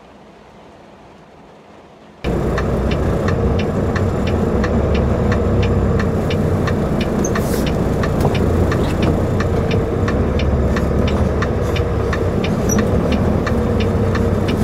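A semi truck's engine running steadily, starting abruptly about two seconds in, with a regular light ticking about twice a second.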